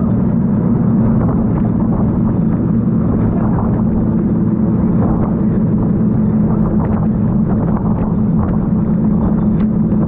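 Jet boat's engine running steadily at speed, a constant low drone, over a rush of wind and water noise.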